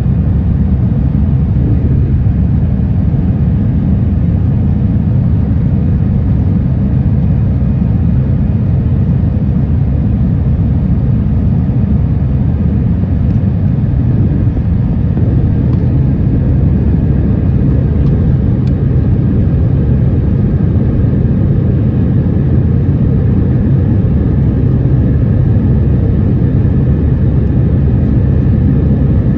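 Steady cabin noise aboard an Airbus A319 jet airliner: a loud, even rumble of the engines and airflow, with a faint steady whine above it.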